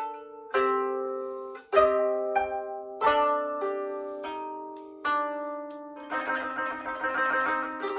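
Koto solo: single plucked notes on the strings, each ringing and fading, about one every half-second to second, then a dense passage of rapid notes from about six seconds in.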